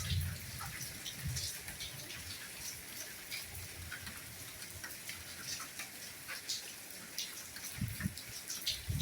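Steady soft rainfall with separate drops pattering on a surface, and occasional low dull thuds, the heaviest about a second before the end.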